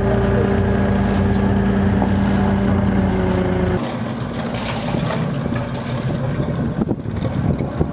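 A yacht's motor running at a steady idle, then about halfway through it gives way abruptly to wind buffeting the microphone with scattered knocks.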